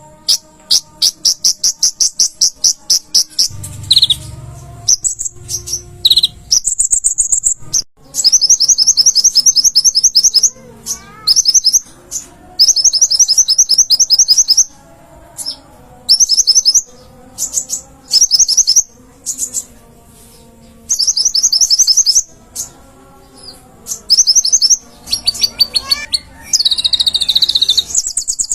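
Olive-backed sunbird (kolibri ninja) singing in rapid, high-pitched trills of fast repeated notes. The bursts last a second or two each and are separated by short pauses.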